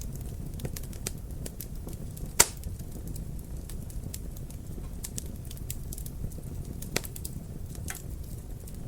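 Wood fire in a fireplace crackling, with scattered small pops over a low steady rumble and one loud pop about two and a half seconds in.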